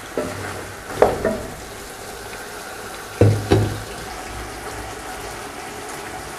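Chicken, potatoes and tomatoes in spiced masala sizzling steadily in a large aluminium pot, stirred with a wooden spatula that knocks against the pot several times, the two loudest knocks about three seconds in.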